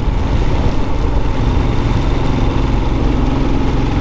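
Royal Enfield Scram 411's single-cylinder engine running steadily on the move, under a constant rush of wind and rain noise.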